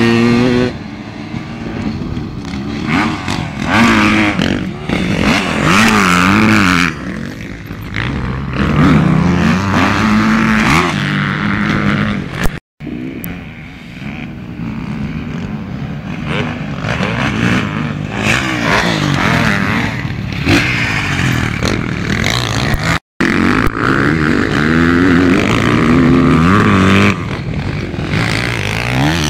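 Motocross bikes running on a dirt track, engines revving up and dropping back over and over as the riders work the throttle and shift, often more than one bike at once. The sound cuts out completely twice, briefly, about a third of the way in and again about three quarters of the way in.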